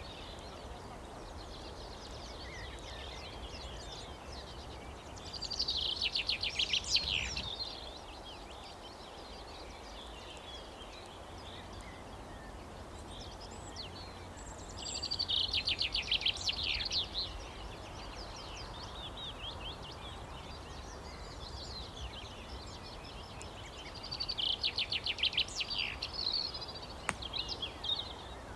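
A songbird singing a rapid trilled phrase three times, about every nine seconds, over a steady outdoor background hiss.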